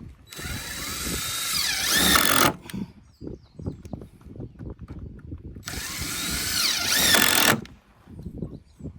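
A power tool run twice, about two seconds each time, its whine bending in pitch and growing louder through each run, with light knocks and clatter of work between the runs.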